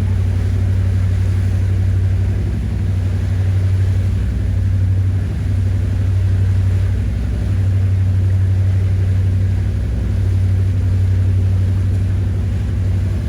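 Motorboat engine running steadily at a constant speed, a loud low drone with little change in pitch.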